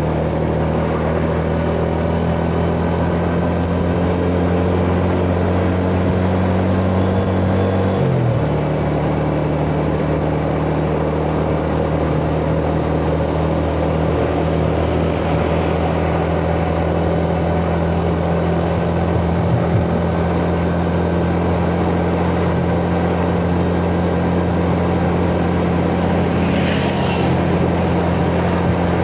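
Yamaha Jupiter Z 'Burhan' single-cylinder four-stroke underbone motorcycle engine running steadily under way, with road and wind noise. The engine note dips sharply about eight seconds in, then settles back to a steady pitch.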